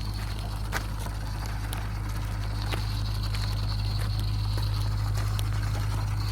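Small electric RC truck running over rough ground: a steady high motor-and-gear whine that drops away briefly in the middle and returns, with scattered crackles and clicks from the tyres.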